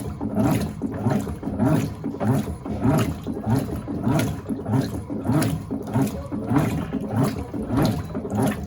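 Electrolux LTA15 top-loading washing machine agitating in the softener rinse: the agitator swishes the water back and forth in a steady rhythm of about two strokes a second. The agitation stops near the end as the machine goes into the softener soak.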